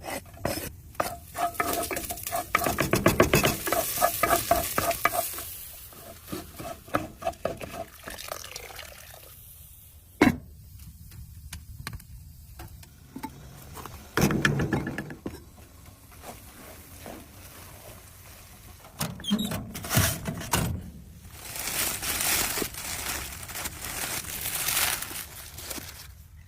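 Cooking in a pan: a utensil stirring and scraping, food sizzling and frying, and scattered clicks and knocks of cookware.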